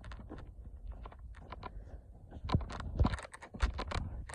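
Irregular clicks and knocks close to the microphone, a few a second, over a low rumble, getting louder about halfway through.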